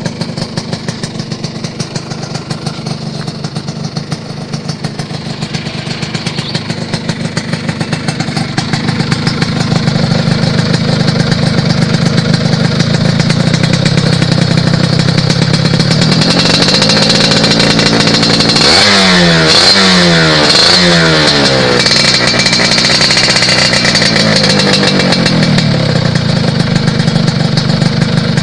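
Motorcycle running through a '37' aftermarket exhaust: a steady idle that grows louder over the first ten seconds, then a rev, three quick throttle blips in a row, another rev, and back to idle.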